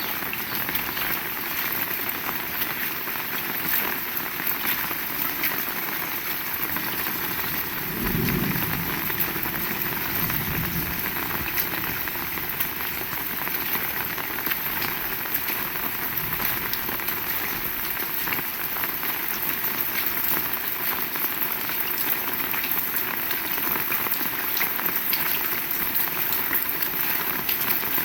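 Heavy rain falling steadily, a dense patter of drops hitting surfaces. A brief low rumble sounds under it about a third of the way in.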